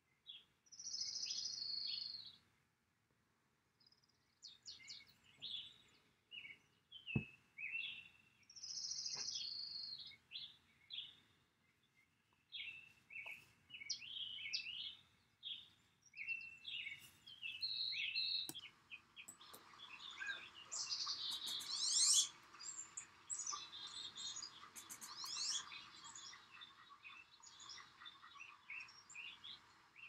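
Birds chirping and calling in short overlapping notes, growing busier with fast high trills from about two-thirds of the way through.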